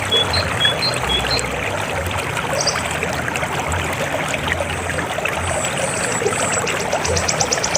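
River water flowing steadily. A few short high chirps sound in the first second, and a high, rapidly pulsing call starts about six seconds in.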